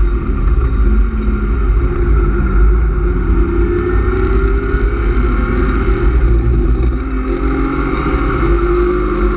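BMW E36 328is's straight-six engine with cold-air intake, heard from inside the cabin with road rumble underneath: the engine note drops as the car slows for a corner, then climbs again under hard acceleration out of it.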